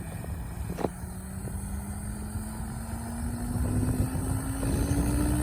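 Electric RC helicopter (XLPower Specter 700 V2 NME) spooling up: a motor and rotor hum that rises slowly and steadily in pitch and grows louder, after a sharp click about a second in.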